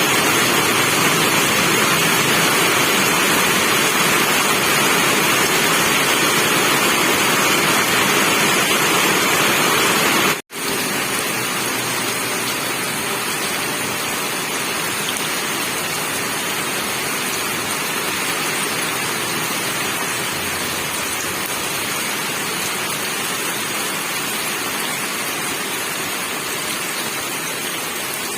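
Steady rain, a dense even hiss. It cuts out for an instant about ten seconds in and then carries on a little softer.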